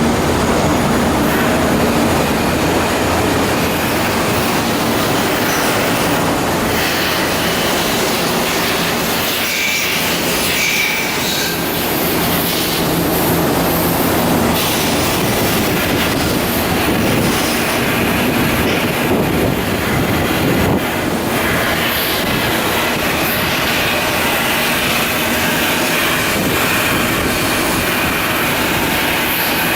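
Loud, continuous industrial noise from shipbuilding work on steel hull blocks: a steady harsh rush with a brief high squeal about ten seconds in.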